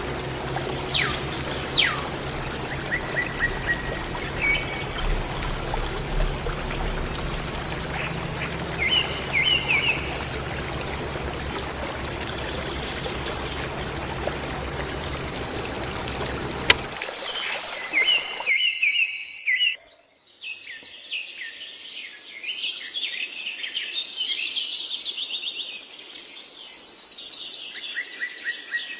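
Birds chirping over a steady rush of pouring water, which stops after a sharp click about two-thirds of the way through, leaving only birdsong.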